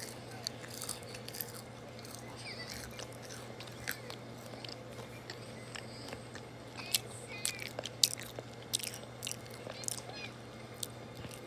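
French fries being bitten and chewed right at the microphone: soft chewing with many sharp, short mouth clicks, busiest in the second half.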